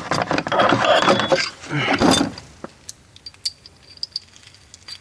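Socket wrench and metal tools clattering on the mower's blade bolt for about a second and a half, with a short voiced sound around two seconds in, then a few scattered light metal clicks.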